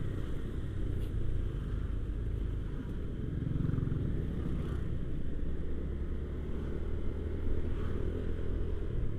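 Motorcycle running steadily while being ridden, its engine and the road and wind noise making a continuous low rumble.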